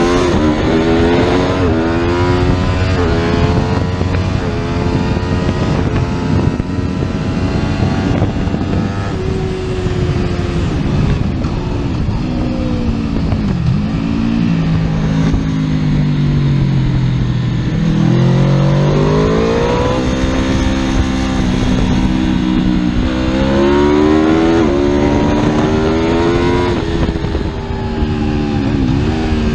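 Superbike engine being ridden hard. It accelerates through several quick upshifts, then eases off with the pitch falling through the middle, and accelerates and shifts up again near the end.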